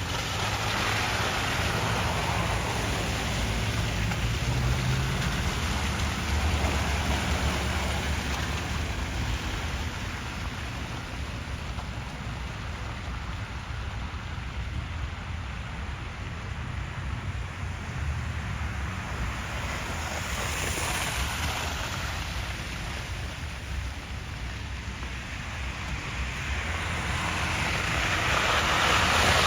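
Street traffic on a wet, slushy road: car tyres hiss past about a second in, and another vehicle approaches and gets louder near the end, over a steady low rumble.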